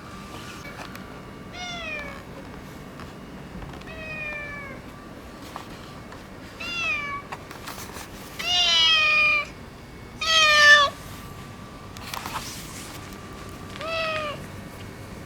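Orange tabby tomcat meowing six times, each call falling in pitch at its end. The two calls about halfway through are the longest and loudest.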